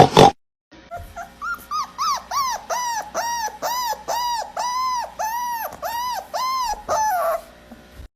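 A dog whining in a long run of short, high cries, each rising and falling in pitch, about two to three a second, ending on a falling cry. A sharp loud knock comes at the very start.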